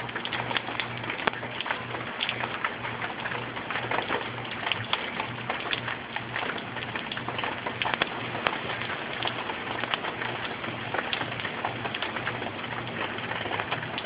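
Rain falling steadily, a hiss dotted with individual drops pattering, as the storm squall tails off. Under it runs a low hum that pulses about three times a second.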